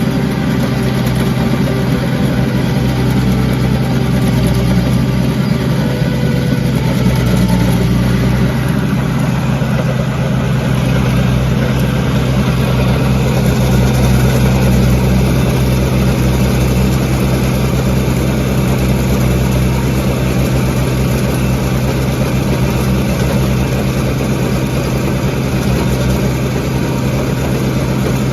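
Kubota B2650 tractor's three-cylinder diesel running steadily at working speed, driving a WG24 PTO stump grinder as it cuts pine stumps.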